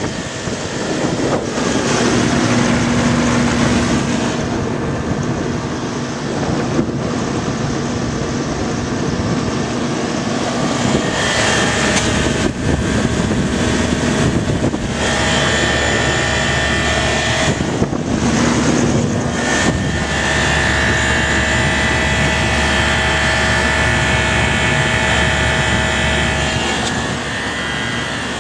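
Old Marvair HVAC unit running: steady fan and airflow noise with a low hum, and a higher whine that fades in and out.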